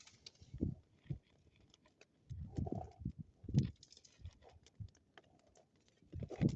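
Bonfire crackling with scattered sharp pops, mixed with irregular low thumps.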